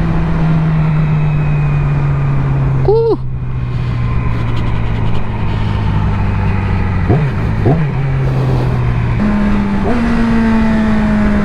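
Yamaha R6 sportbike's inline-four engine running at steady cruising revs, heard over wind noise at the helmet. The engine note sinks slowly, then rises in two steps near the end as the bike accelerates.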